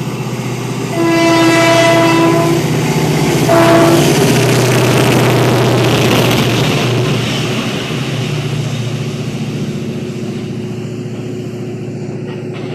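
Renfe train sounding its horn twice, a long blast then a short one, as it approaches. The loud rush of the train passing follows and slowly fades as it moves away.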